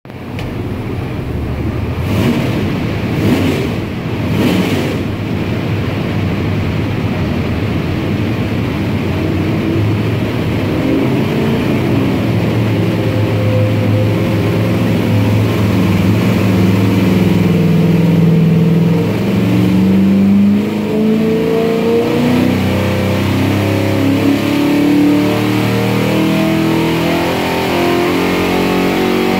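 A 427 cubic-inch small-block Chevrolet stroker V8 with a hydraulic roller cam and a 750 carburetor running loudly on an engine dyno. Its pitch shifts and steps as the revs change.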